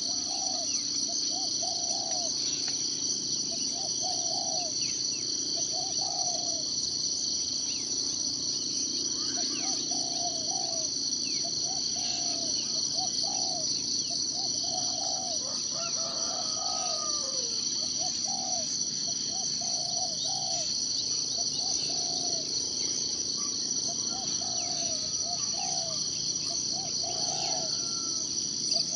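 A steady, shrill chorus of insects, crickets or cicadas, runs throughout. Over it a bird repeats a short, lower call about once or twice a second, with a few faint higher chirps from other birds.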